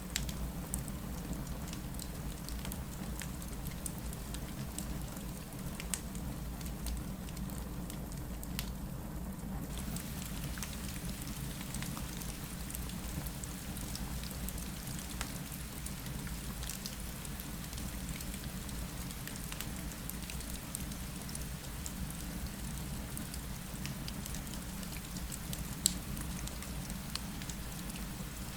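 Steady rain against a window mixed with a fireplace crackling, with scattered small clicks and pops throughout. The high hiss of the rain grows fuller about ten seconds in, and one sharp pop stands out near the end.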